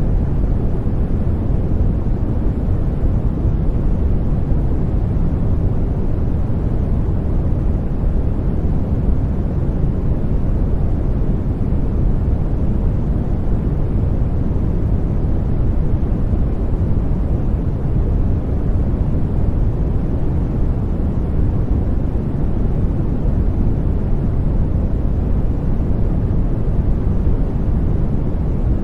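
Steady white-noise sleep sound for babies: an even, deep rushing noise with most of its weight in the low range and little hiss at the top.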